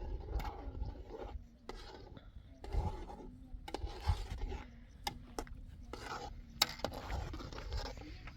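Irregular scraping and rubbing strokes with a few sharp clicks, over a low steady rumble.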